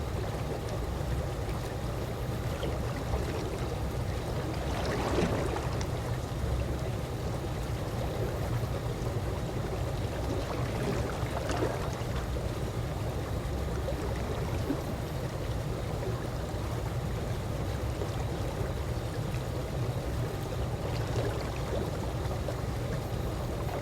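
Calm swimming-pool water lapping in a steady wash, with a few brief louder laps about five, eleven and twenty-one seconds in.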